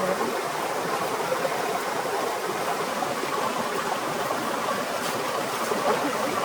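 Steady, unbroken rush of water, either heavy rain or a running stream, with an even hiss.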